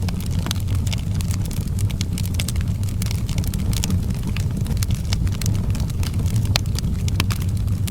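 Wood fire burning in an outdoor fireplace, with many sharp crackles and pops at irregular intervals over a steady low rumble.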